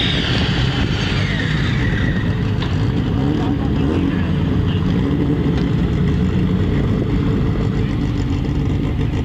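Drag-race car engines giving a steady low rumble, mixed with wind on the microphone. In the first two seconds a high engine note falls in pitch and fades.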